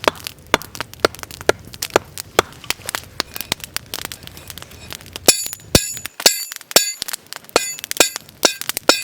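Wood campfire crackling with sharp, irregular pops. From about five seconds in come several brighter, ringing metallic clinks, as of a metal pan or cookware being handled and set on the fire.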